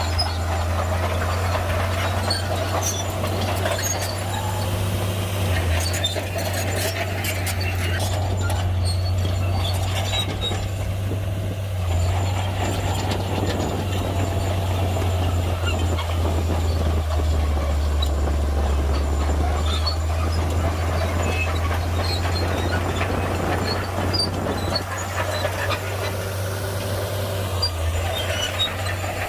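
Shantui crawler bulldozer's diesel engine working, a steady low drone that drops slightly in pitch for a stretch past the middle, with scattered light metallic clinks.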